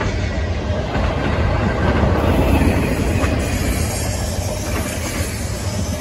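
Loaded garbage-container cars of a CSX freight train rolling past, a steady rumble of steel wheels on the rails with a faint click about halfway through.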